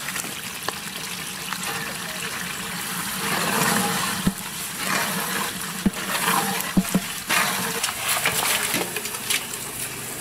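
Spice paste sizzling in oil in a large metal pot as a metal ladle stirs it, the hiss swelling and easing with the stirring, with a few sharp clinks of the ladle against the pot around the middle.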